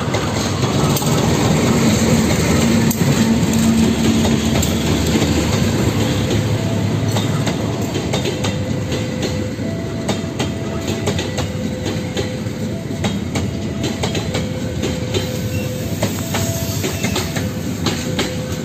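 KAI diesel locomotive passing close by, its engine running loudly for the first few seconds. The passenger coaches follow, their wheels clicking over the rail joints, with a thin wheel squeal on and off.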